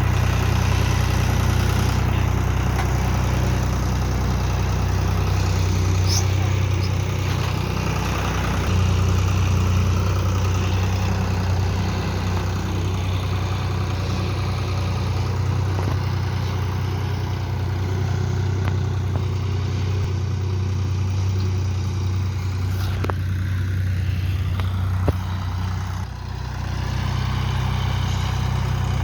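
John Deere tractor engine running steadily, with a single sharp knock near the end.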